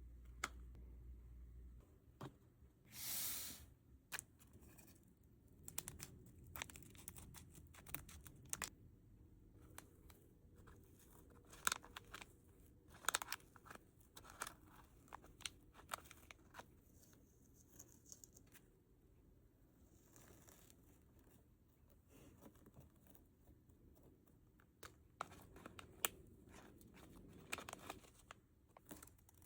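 Faint handling of small plastic packaging: a short tearing rip about three seconds in, then scattered clicks and crinkles as wrappers and small plastic parts are handled.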